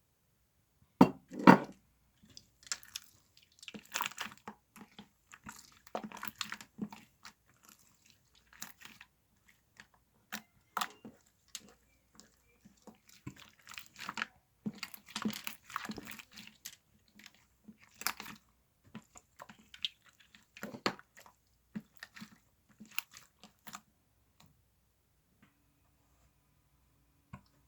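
Crunchy chewing and biting in irregular bursts, loudest about a second in, dying away near the end.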